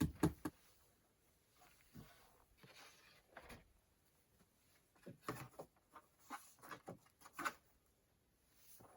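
Scattered knocks, taps and short scrapes of hand work on wood or roofing material, coming irregularly, with a cluster at the start and a busier run in the second half.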